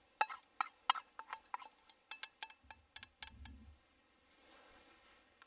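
Utensils clicking and tapping: about a dozen sharp clicks over roughly three seconds, with a dull low thud about three seconds in.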